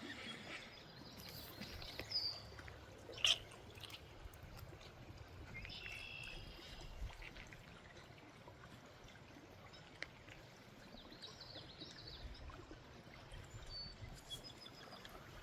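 Creek water running and trickling faintly, with a few short high chirps and one sharp click about three seconds in.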